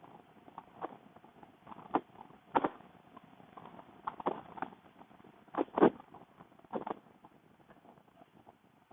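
Wind buffeting a microphone while riding a motorcycle, heard as irregular short pops and knocks over a faint steady rush.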